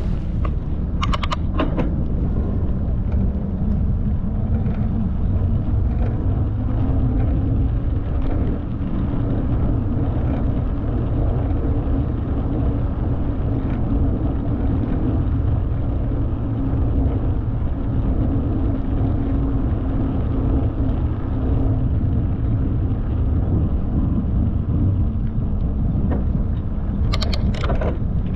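Wind buffeting the microphone over the steady rumble of a bicycle being ridden along a path, with short clusters of sharp clicks about a second in and again near the end.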